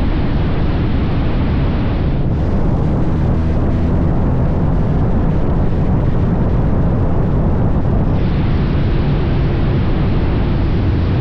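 Motorcycle riding at speed: steady, loud wind rush over the microphone with the engine and road noise rumbling underneath.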